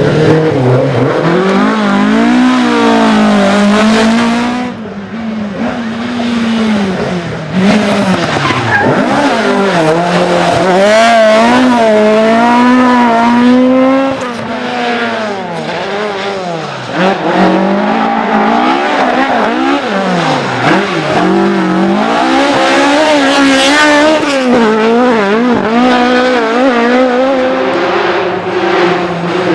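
Rally cars driven flat out, one pass after another: engines revving up and down in pitch through gear changes and corners, with tyre squeal as the cars slide.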